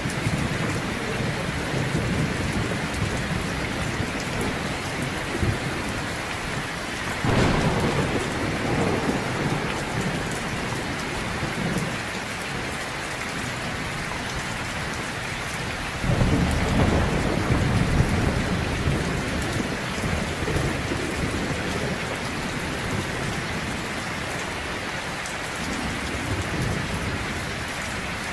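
Heavy rain falling steadily, with rolling thunder that swells up about seven seconds in and again about sixteen seconds in.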